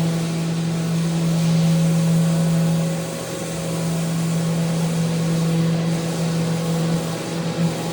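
Electric power sander running steadily on a handrail: a constant motor hum over the hiss of the abrasive. The hum weakens briefly about three seconds in.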